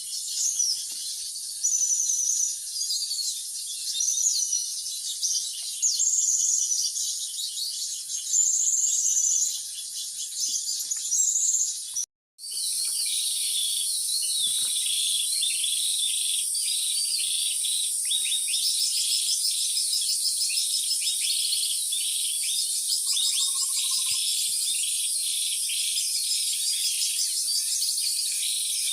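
Steady, dense insect chorus of tropical forest, high-pitched and continuous, with repeated bird calls over it in the first part. About twelve seconds in the sound cuts out for a moment, then the insect drone resumes on its own with a fast, even pulse.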